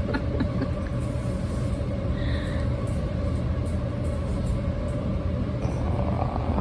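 Steady low rumble with a faint constant hum running underneath.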